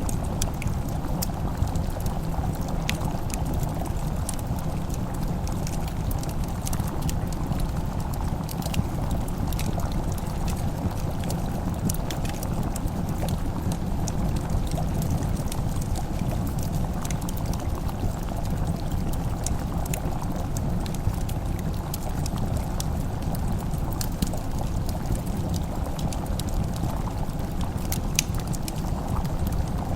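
Wood fire crackling, with sharp pops and snaps scattered throughout over a steady low rumble, layered with soft simmering cooking sounds.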